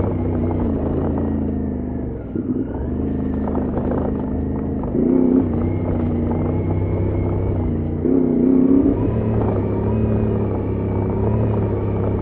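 Adventure motorcycle engine running at low speed on a rough trail, the revs picking up in short surges several times, the strongest about five and eight seconds in.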